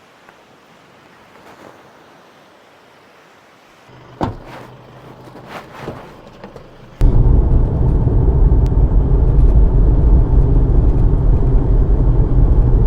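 A faint outdoor hush, then a click and a few knocks about four seconds in. Halfway through, a loud steady low rumble of a car driving on the road sets in abruptly, heard from inside the cabin.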